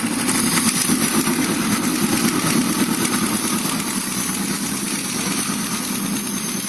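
Engine idling steadily with a rapid ticking from the valvetrain: valve tapping.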